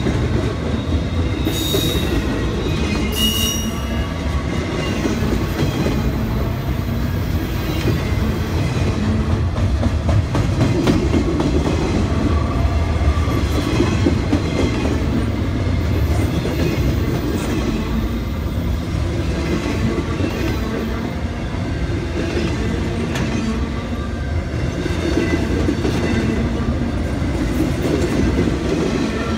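Loaded railroad flatcars of a long train rolling past close by, a steady rumble of steel wheels on rail. There are two brief high wheel squeals in the first few seconds.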